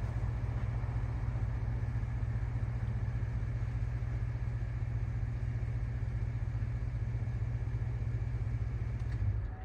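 Vehicle engine idling with a steady low rumble, which stops abruptly near the end.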